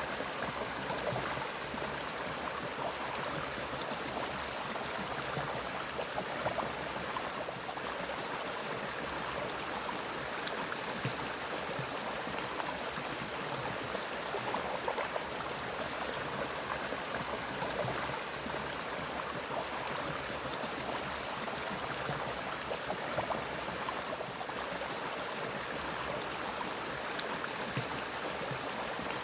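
Mountain stream flowing steadily through forest, an even rush of water with no breaks. A thin, steady high-pitched tone runs above the water throughout.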